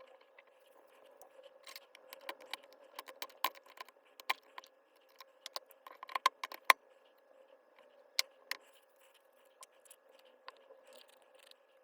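Irregular clicks, clinks and light scrapes of small hard parts being handled and set down, from work on a disassembled Makita HR244D cordless hammer drill, busiest in the middle, over a faint steady hum.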